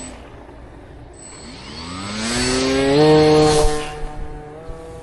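Brushless electric motor and propeller of a cardboard RC plane spooling up, its whine rising in pitch over about a second and a half, loudest about three seconds in, then running steady at a lower level. A few light taps come near the end.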